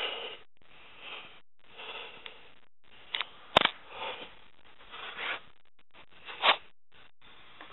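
Breaths and sniffs close to the microphone, in separate short puffs, with a sharp click about three and a half seconds in.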